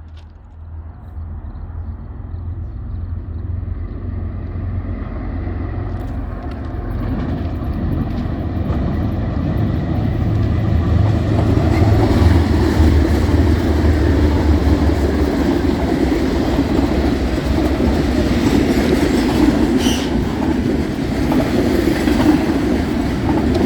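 Diesel freight train approaching and passing at speed. A deep locomotive rumble builds over the first dozen seconds, then the steady rolling noise of the freight cars' wheels on the rails takes over.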